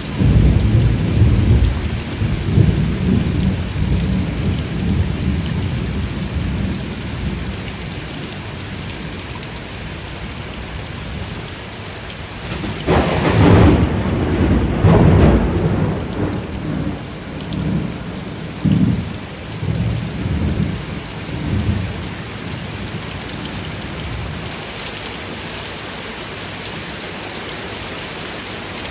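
Steady heavy rain with thunder: low rumbling in the first few seconds, then a louder thunderclap about 13 seconds in that rolls on in several shorter rumbles before dying away about 22 seconds in.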